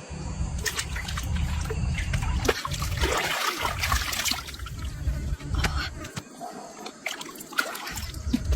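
Water trickling and splashing, with a louder stretch of splashing about three seconds in.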